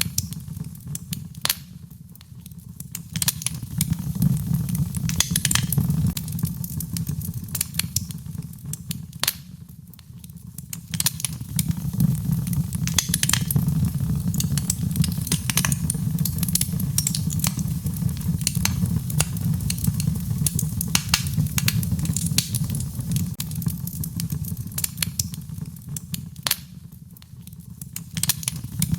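Fire in a fireplace crackling and popping over a steady low rumble of flames. The rumble eases off briefly three times.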